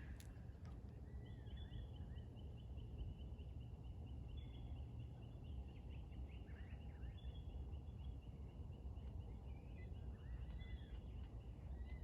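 Faint birdsong: one bird gives a long, fast trill, with short rising-and-falling calls from other birds over it, above a steady low rumble.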